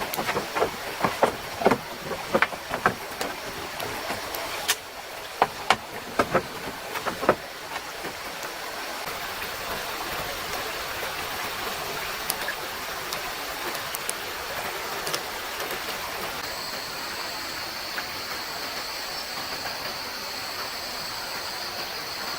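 Steady rush of a flowing stream. Over the first seven seconds or so a run of sharp knocks and clacks sounds over it, and about two-thirds of the way in a thin, steady high tone joins the water.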